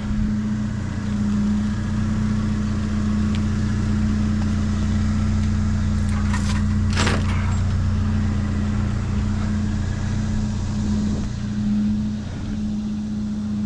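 Steady engine hum, like a vehicle idling, with a constant low drone. Two brief knocks or rattles come about six and seven seconds in.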